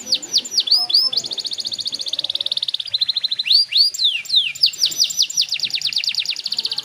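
Young domestic canary singing: long, fast trills of rapidly repeated notes, broken by swooping rising and falling whistles.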